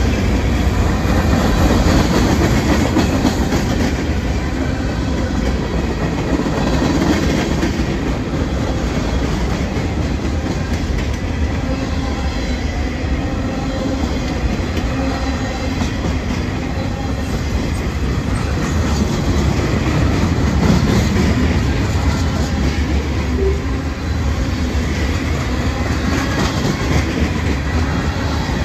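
Freight cars of a slow-moving mixed freight train rolling past close by: steel wheels running on the rails, a steady loud noise with a heavy low rumble.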